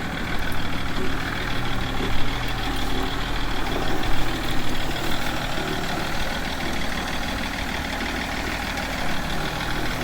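BMW E39 525d's straight-six diesel engine idling steadily after a cold start, running noisily for a reason the owner cannot pin down.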